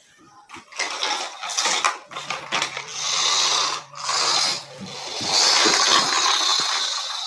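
A small mechanism rattling and whirring in several bursts, loudest in the second half.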